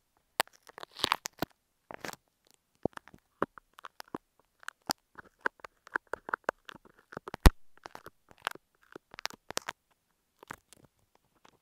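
Fake apple snail eggs being picked out of a prop, close to an earphone microphone: irregular small clicks and crackles, with one sharp louder click about seven and a half seconds in.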